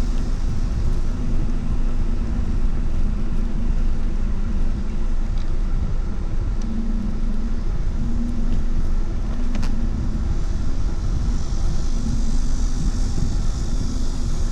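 Wind rushing over the microphone and steady road rumble while riding, with a low hum that comes and goes.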